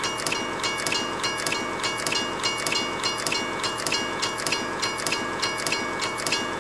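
Train running on rails: a steady rattle with evenly spaced clicks, about three a second, of wheels passing over rail joints, under a steady high whine.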